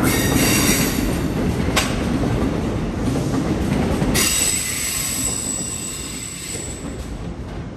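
Train moving along the rails with a low rumble, its steel wheels squealing in high, ringing tones. A single sharp clack comes about two seconds in, and about four seconds in a louder, steady high squeal sets in as the rumble falls away and the sound fades.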